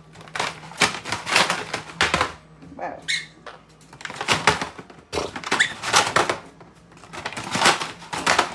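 Quick runs of sharp tapping and clattering, several taps a second, in bursts with short pauses between. About three seconds in comes a short rising whistle.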